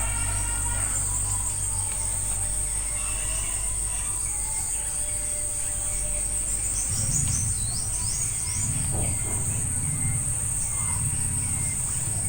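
Steady high-pitched drone of insects (crickets or cicadas) with small birds chirping now and then, a quick run of falling chirps about halfway through. A low hum comes in about seven seconds in.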